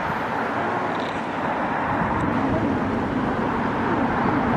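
Steady noise of city vehicle traffic, with no single vehicle standing out.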